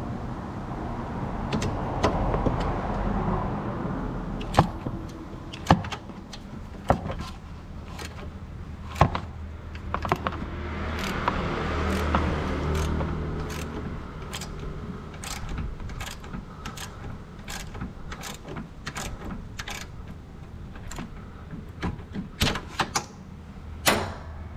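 Irregular sharp clicks and knocks of hand tools and metal parts being handled, over a steady low hum. Two stretches of scraping or rustling come a couple of seconds in and again around ten seconds in.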